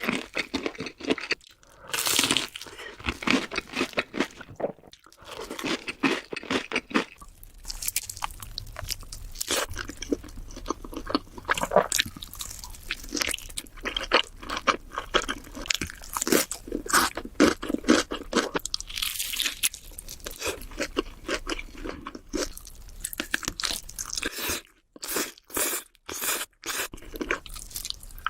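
Close-miked eating sounds: crunchy food being bitten and chewed, with dense, irregular crackling crunches and a few sharper separate crunches near the end.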